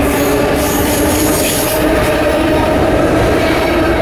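A passing train runs loud and steady on the rails, with a high-pitched wheel squeal in roughly the first two seconds.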